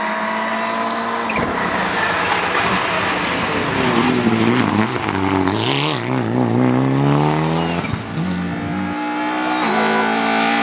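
Rally car engine at full race pace, its pitch rising and falling repeatedly with gear changes and lifts through the corners, with a brief high tyre squeal about halfway.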